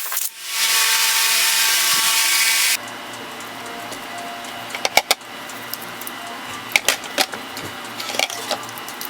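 A power tool running steadily with a loud hiss, stopping abruptly about two and a half seconds in; afterwards a low hum with scattered sharp clicks and taps, as of metal parts being handled.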